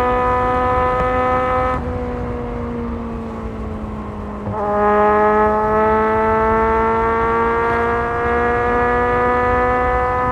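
Kawasaki Z1000 inline-four motorcycle engine under way. The revs ease off and drop for a few seconds as the throttle closes. About halfway through, the throttle opens again and the engine gets louder, its pitch climbing steadily as the bike accelerates.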